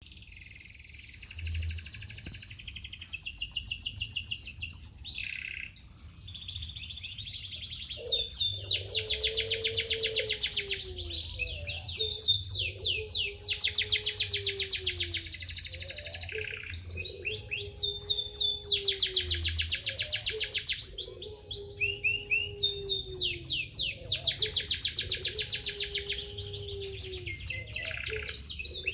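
Domestic canary singing: long, very rapid trills in repeated phrases with short breaks between them. From about eight seconds in, a lower falling note repeats every couple of seconds underneath.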